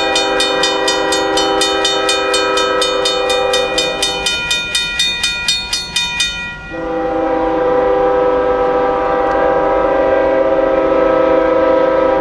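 A locomotive's air horn sounds a chord in two long blasts, with a gap of about two seconds between them. A railroad crossing bell dings rapidly under the first blast and stops during the gap.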